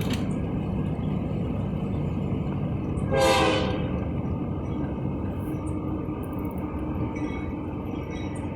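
Steady low rumble of a moving vehicle, heard from inside the cab, with one short, sharp tone about three seconds in.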